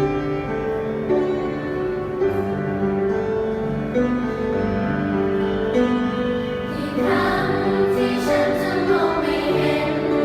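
Choir singing a choral arrangement of a pop song, with piano accompaniment; held notes give way to fuller, brighter singing about seven seconds in.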